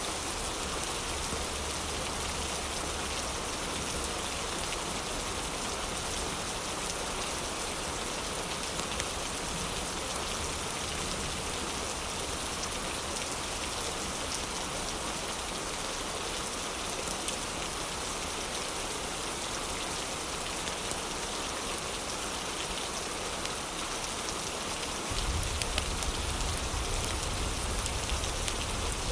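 Heavy rain falling steadily, a dense, even hiss with a few faint sharp pops; about 25 seconds in, a low rumble underneath gets louder.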